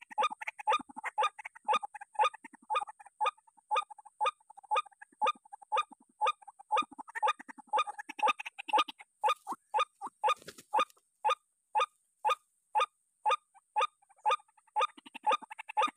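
White-breasted waterhen call played as a bird lure: a short, pitched 'kruak' note repeated evenly about twice a second, over a faint steady electronic whine from the speaker.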